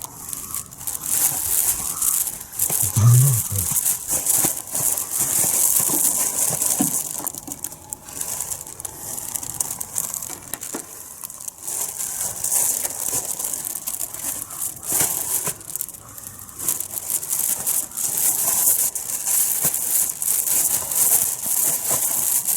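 Steady rustling and crinkling with many small crackles, a handling sound like plastic or fabric being rubbed and crumpled.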